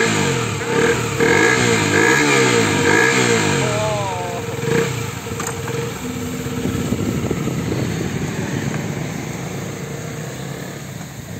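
KTM RC 125's single-cylinder engine being revved several times while standing, each rev rising and falling in pitch, then settling and growing fainter as the bike pulls away.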